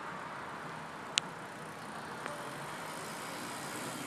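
Steady hum of a car's engine and road noise, with a short sharp click about a second in and a fainter one a second later.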